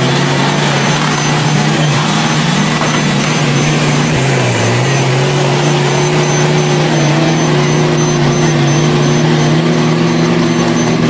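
Heavy earthmoving machine's diesel engine running steadily, its pitch dipping briefly about four seconds in.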